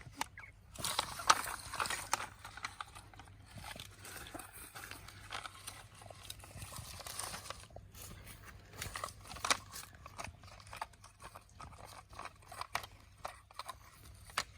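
Small plastic toys being handled: scattered clicks and knocks, with rustling and scraping, busiest in the first half.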